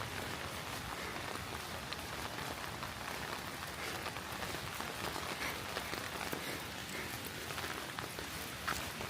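Steady rain falling, a continuous hiss with scattered drops ticking through it and one louder drop near the end.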